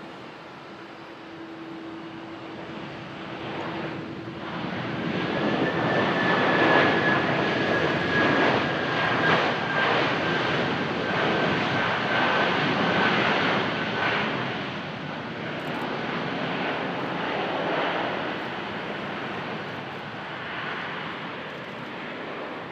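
Boeing 767-300F cargo jet's turbofan engines on landing: the jet noise swells as the aircraft comes close, with a high whine that glides slowly down in pitch, then fades as it moves away.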